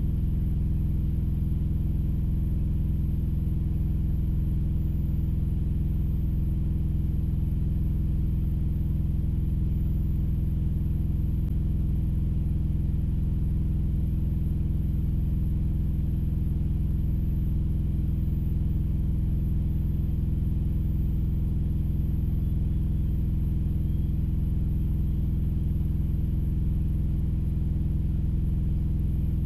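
Vehicle engine idling steadily, a constant low rumble with no change in speed.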